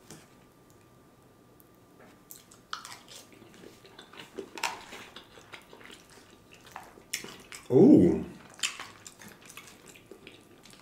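Close-miked eating sounds: wet chewing, lip smacks and mouth clicks on a mouthful of chicken bacon Alfredo pasta. About eight seconds in, a short, loud, low vocal sound from the eater, falling in pitch.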